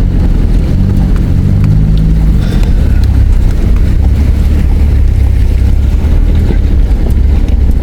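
Four-wheel drive's engine and drivetrain running at low speed with a heavy, steady low rumble, heard from inside the cabin; the engine note wavers up and down early on, with a few light knocks over it.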